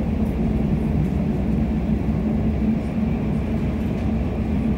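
Electric commuter train running between stations, heard from inside the carriage: a steady low rumble with a constant hum.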